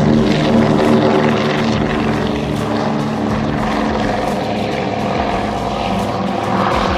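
The twin Pratt & Whitney R-1830 radial engines of a PBY-5A Catalina flying boat in flight: a steady propeller drone.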